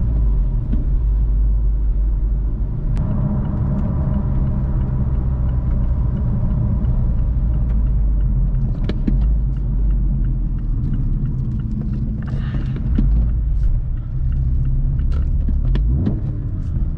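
A Mazda 3's 2.5-litre four-cylinder engine, fitted with an AEM cold air intake, running steadily on the move, heard from inside the cabin as a low rumble mixed with road noise. Scattered light knocks come from the road surface.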